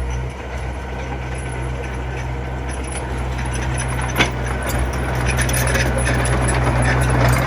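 Komatsu mini bulldozer's diesel engine running steadily, growing a little louder over the second half, with one sharp knock about four seconds in.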